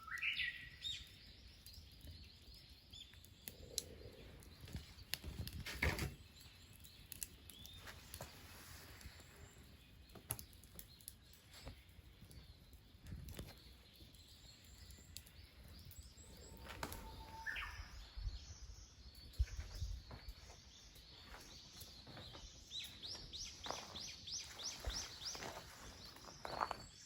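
Birds calling: a few short sweeping chirps, then near the end a quick run of high repeated notes, with scattered faint clicks and knocks.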